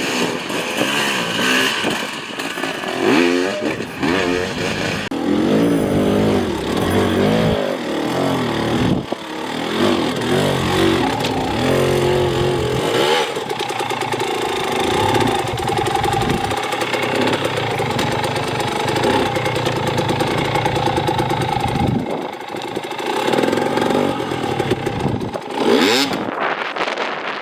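Dirt bike engine revving up and down in quick, uneven bursts as the throttle is worked on a hard enduro course, with a stretch of steadier held revs around the middle.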